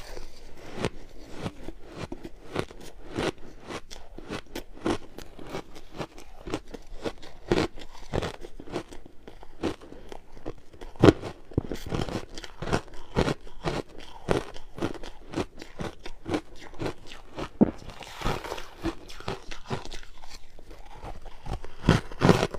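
Ice being bitten and chewed: a quick, uneven run of crisp crunches and cracks.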